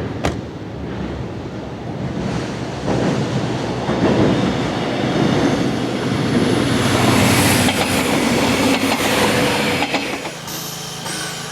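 Steam-hauled passenger train going by, wheels clattering on the rails. It builds from about two seconds in, is loudest in the middle with a high hiss, and falls away near the end.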